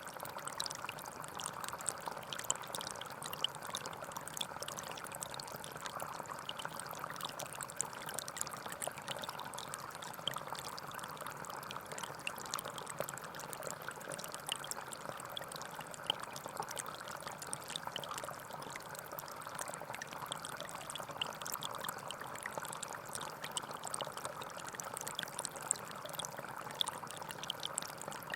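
Gentle forest stream flowing steadily over stones, a continuous babble with small splashes and droplets.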